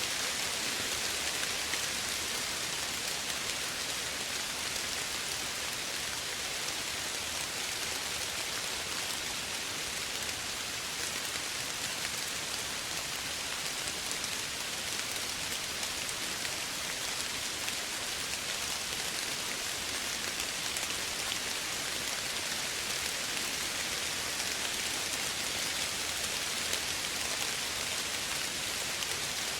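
Soft, steady rainfall, a continuous even hiss of drops on a surface with no thunder or single loud drops standing out.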